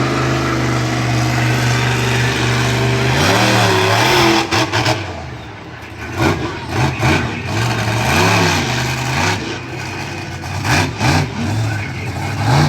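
Monster truck engine holding a steady pitch, then from about three seconds in revving in a series of quick blips that rise and fall.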